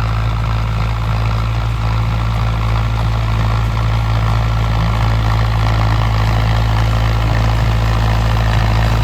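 Mahindra Arjun Novo 605 DI-MS tractor's diesel engine running steadily with a deep, even hum.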